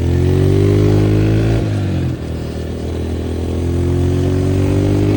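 Honda CRF125F dirt bike's single-cylinder four-stroke engine under way. The revs climb, dip briefly about two seconds in, then climb again.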